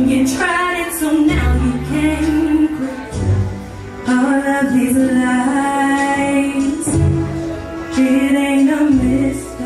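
A woman singing a held, melismatic R&B vocal line over a live band with bass and drums.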